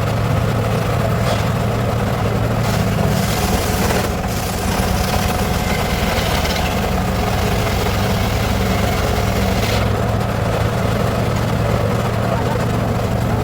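Circular saw rig running on teak wood with a steady low hum. A brighter, hissing cutting noise rides over it and eases off about ten seconds in.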